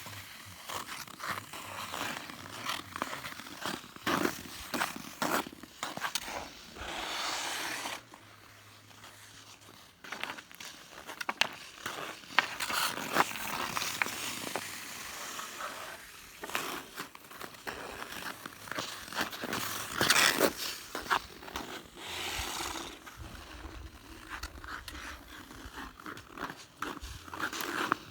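Ice skate blades scraping across pond ice in repeated strides and stops, with scattered sharp clicks and knocks. It goes quieter for a couple of seconds near the start.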